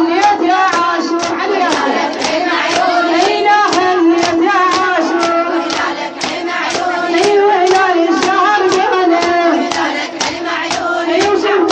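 Female voices chanting a mournful Arabic lament in chorus, kept in time by sharp rhythmic hand strikes at about two to three a second, the beat of a Shia latmiya.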